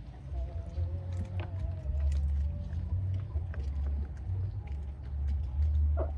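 Wind rumbling on the microphone, with many scattered small clicks of poultry pecking at feed. A low, wavering call from a hen runs for about two seconds near the start.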